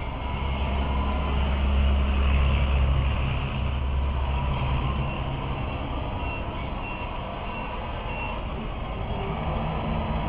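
Truck engine sound from an RC model Scania truck, running and swelling louder for a few seconds, then settling. Later a reversing alarm beeps four times in a row.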